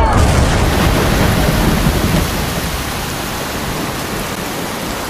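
Thunder rumbling over heavy rain. The low rumble is strongest in the first couple of seconds and dies away, leaving the steady rain hiss.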